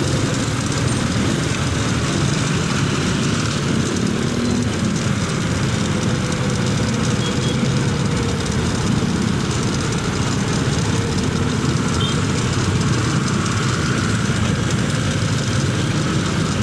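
Motorcycle underway at a steady speed: the engine runs evenly under a constant rush of wind and road noise, with no change in pace.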